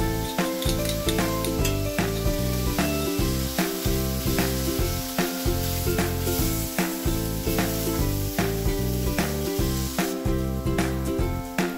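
Onions and tomatoes sizzling as they fry in a stainless steel pan and are stirred, under background music with a steady beat.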